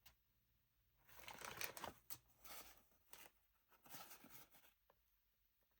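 Faint rustling of an old paper letter being handled, in several soft bursts between about one and five seconds in.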